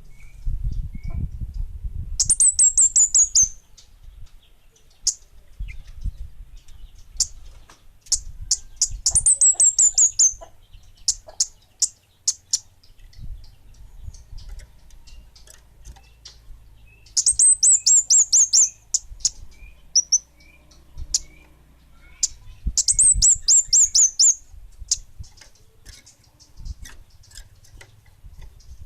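A kemade bunga api songbird singing: four loud bursts of rapid, high, falling trilled notes, with single sharp chips in between.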